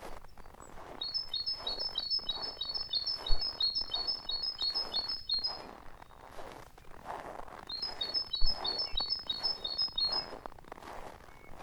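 A songbird singing twice, each time a fast run of short, high, repeated notes lasting a few seconds. Underneath is a lower, uneven crunching that comes in quick pulses, like footsteps in snow, with a dull thump about a third of the way in and another about two-thirds of the way in.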